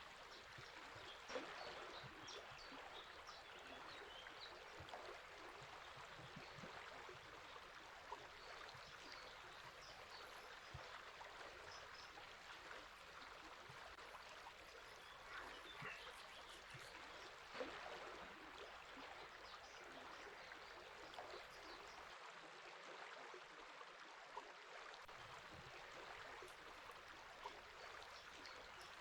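Faint, steady flowing river water, with short bird chirps now and then.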